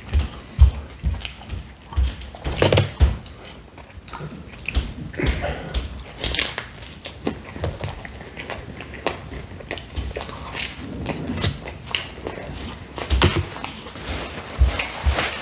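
Close-miked biting and chewing of pizza: irregular crunches of crust and wet chewing noises.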